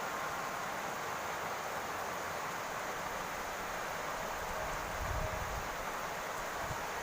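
Steady rain falling on a roof, an even hiss of drops, with a brief low rumble about five seconds in.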